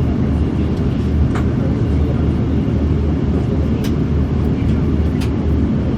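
Steady low rumble of airliner cabin noise from an Airbus A340-600, its four engines and the airflow heard from inside the cabin, with a few faint clicks.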